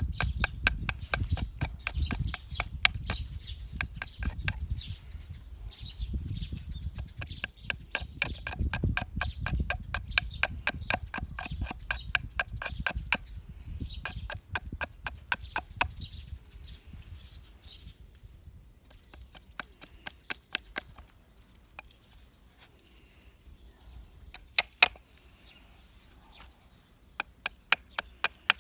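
Dead pine wood being worked with hand tools: rapid, even clicking and knocking at several strikes a second, thinning out about two-thirds of the way through. Two sharp, louder knocks come near the end.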